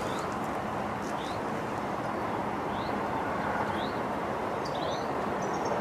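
Steady wind rumbling on the microphone, with a small bird giving repeated short rising chirps about once a second.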